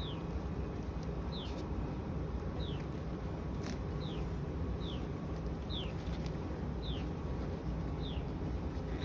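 Steady low buzz of honeybees around an opened hive, with a bird repeating a short, high, falling note about once a second.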